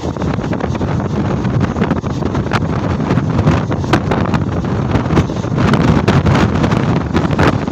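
Mumbai suburban electric local train running at speed, heard from its open doorway: wind buffets the microphone over the train's steady rumble, with frequent sharp clicks and knocks from the wheels on the track.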